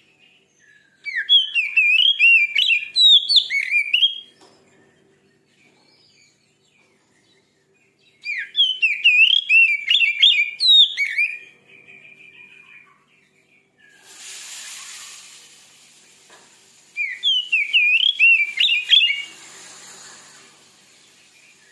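Oriental magpie-robin (kacer) singing in three loud bursts of rapid, varied whistled phrases with quick up-and-down glides. A fainter hiss rises and falls in the gap before the last burst and again after it.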